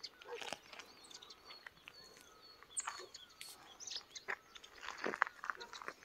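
Birds chirping, with many short, high calls and little whistles scattered throughout, along with a few soft clicks.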